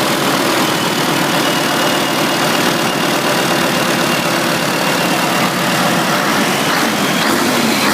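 Freshly overhauled Scania DTC1101 11-litre straight-six turbo diesel idling steadily.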